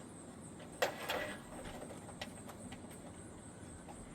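A single sharp knock with a short rattle about a second in, then a few light ticks: handling noise from working at the gutter and fascia.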